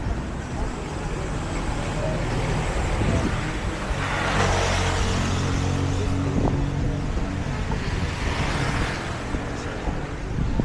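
A motor engine running with a steady low hum, over wind and surf noise that swells twice.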